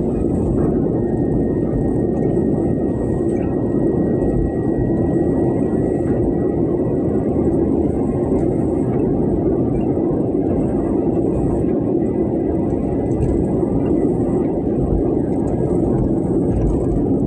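Heavy rain and strong wind: a loud, steady, unbroken rushing noise, heaviest in the low and middle range, with no distinct thunder claps.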